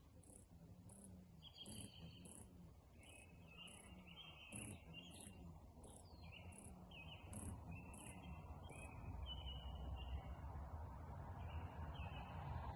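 Faint birdsong: a run of short whistled chirps repeated again and again, over a steady high-pitched ticking about twice a second.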